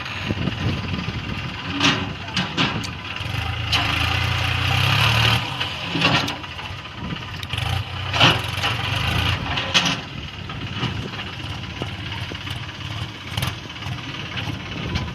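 Swaraj tractor's diesel engine running, swelling in level twice, with scattered sharp knocks and rattles.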